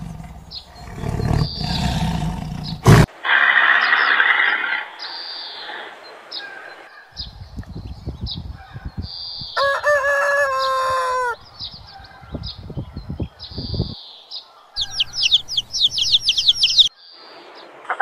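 A lion growls for the first few seconds, then the sound cuts to chickens clucking. A rooster crows once about halfway through, and high rapid chirps follow near the end.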